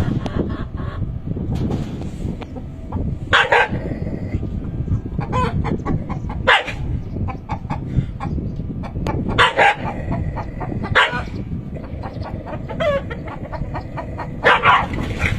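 Rooster squawking and clucking as it fights a dog: short, sharp calls every two to three seconds over a steady low rumble.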